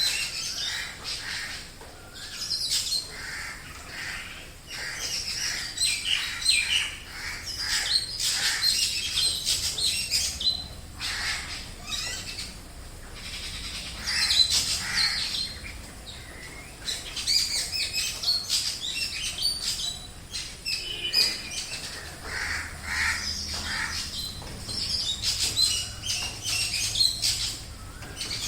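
A chorus of many wild birds calling at once: overlapping chirps, whistles and squawks, rising and falling in loudness with no pause.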